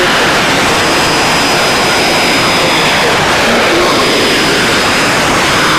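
Shortwave radio hiss and static on 9650 kHz with the Voice of Korea broadcast faded down beneath it, the announcer's voice only breaking through in weak fragments, and a thin steady high whistle over the noise. The fade comes from poor propagation on this frequency.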